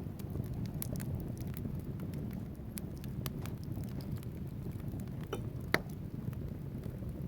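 Wood fire burning in a fireplace: a steady low rumble of flames with scattered sharp crackles from the logs and one louder pop near the end.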